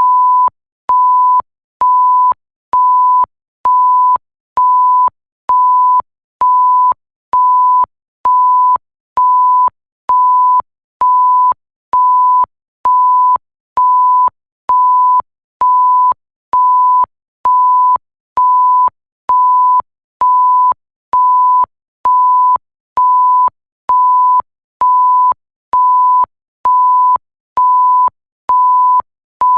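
Electronic bleep: one steady pure tone switching on and off evenly, about one beep a second, each beep lasting about half a second with a faint click as it starts and stops.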